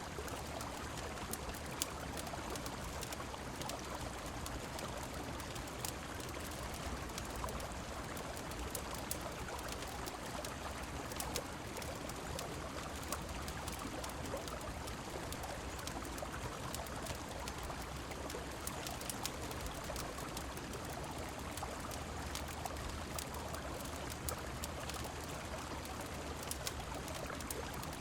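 Steady rushing of a river mixed with falling rain, with frequent small sharp crackles scattered through it.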